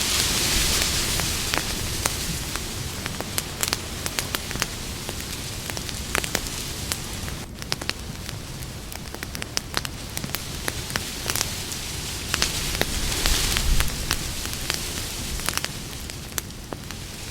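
Campfire burning with a steady hiss and frequent sharp crackles and pops from the burning wood, swelling louder near the start and again about two-thirds of the way through.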